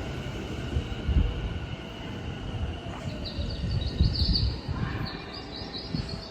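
Tokyu 5000 series electric train at the platform: a low rumble with irregular knocks and thuds from the cars. From about three seconds in there is also a high, wavering squeal or chirping.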